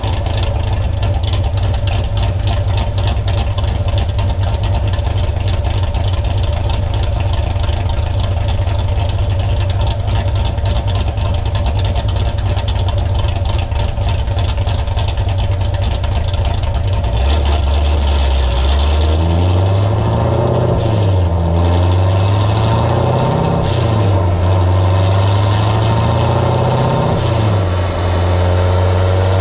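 2019 Corvette Grand Sport's 6.2-litre LT1 V8, fitted with an aftermarket camshaft and long-tube headers, idling steadily through its quad exhaust. After about seventeen seconds the revs rise, then climb and fall back about three times.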